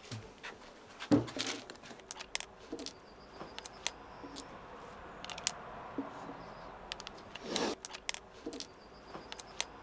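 Scattered metallic clicks and clinks of a Ruger .357 Magnum revolver and its cartridges being handled, some with a short bright ring, like keys or coins.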